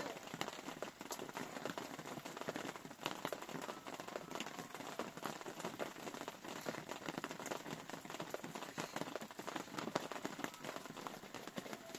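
Rain pattering steadily, a dense crackle of drops with no pauses.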